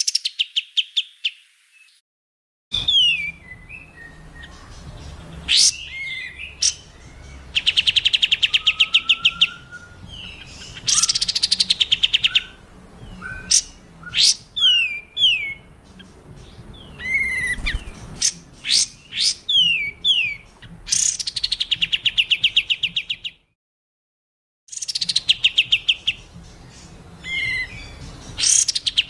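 Masteran recording of mixed songbird song for tutoring caged birds: fast, harsh trills of evenly repeated notes alternate with sharp falling whistles and chips. The audio drops to silence twice, briefly just after the start and again about three-quarters of the way through, as the recording is cut between segments.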